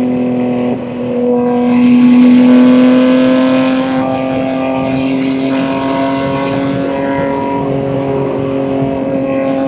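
BMW M2 G87's S58 twin-turbo inline-six, fitted with catless downpipes and an equal-length mid pipe, running while the car is driven, with a steady exhaust note. The level dips briefly just under a second in, swells louder for a couple of seconds, then settles to an even cruise.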